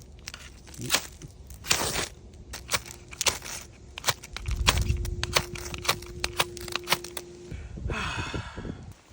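Knife spine scraped hard down a ferrocerium fire-steel rod, a quick irregular series of over a dozen sharp scraping strikes thrown to shower sparks onto tinder. A short rustle follows near the end.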